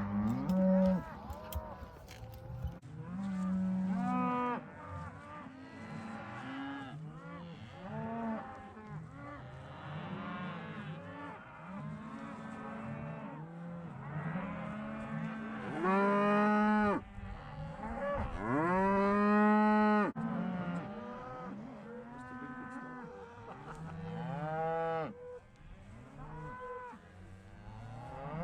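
A herd of cattle bawling and mooing, many calls overlapping one after another, with two loud, long calls about 16 and 19 seconds in.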